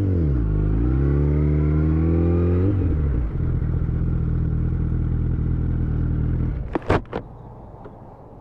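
Motorcycle engine running, its pitch dipping and then climbing under throttle for about three seconds before holding steady. Near the end, a few sharp clattering impacts, after which the engine sound drops away: the bike going down when the front wheel locked under hard braking.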